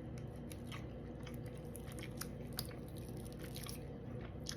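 A person chewing a mouthful of fried red snapper close to the microphone: soft, scattered mouth clicks over a low steady hum.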